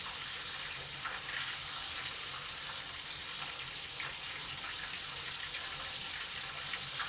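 Crumbed chicken pieces frying in hot oil: a steady sizzle with a few faint crackles.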